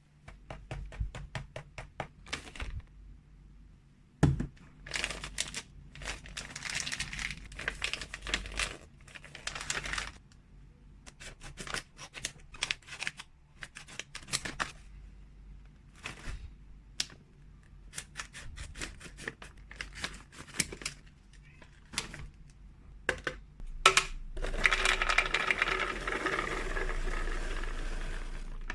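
Close-up handling of plastic packaging and containers: quick clicks and taps with bursts of crinkling, one solid knock about four seconds in, and a longer stretch of dense rustling near the end.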